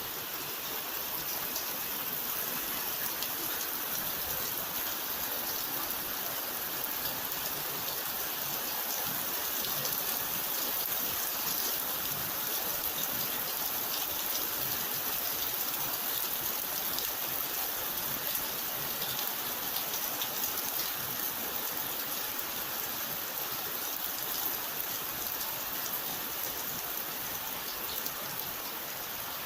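Steady rain falling, a dense even hiss of drops with fine ticks of individual raindrops on a surface.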